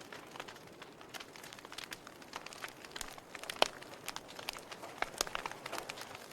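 Wood fire crackling, with irregular snaps and pops over a soft hiss; one sharp pop, louder than the rest, comes about three and a half seconds in.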